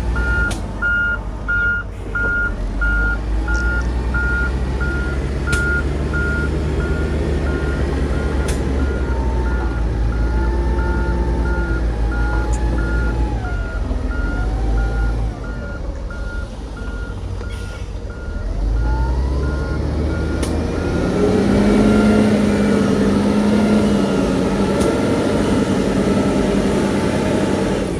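Diesel engine of heavy earthmoving machinery running under a steady reversing alarm beeping about once a second. About two-thirds of the way in the beeping stops and the engine revs up and runs louder.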